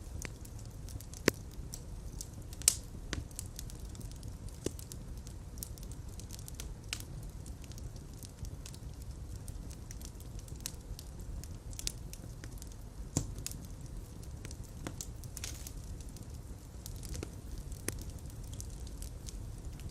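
Open fire crackling in a fireplace: a steady low rumble with frequent scattered pops and snaps. The sharpest pops come about a second in and again near three seconds.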